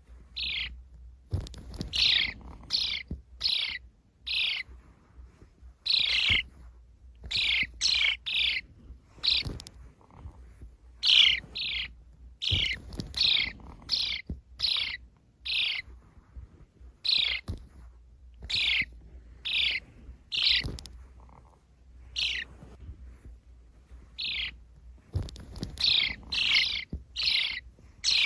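Sparrows chirping: many short, downward-sliding chirps, one after another in irregular runs, over a faint low hum.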